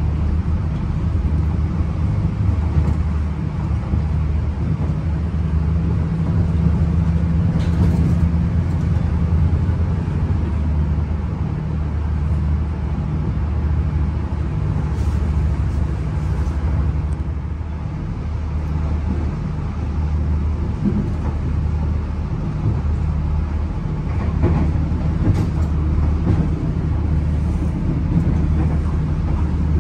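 Diesel commuter train running along the line, heard from inside the passenger carriage: a steady low drone and rumble from the engine and the wheels on the rails, with a few faint clicks.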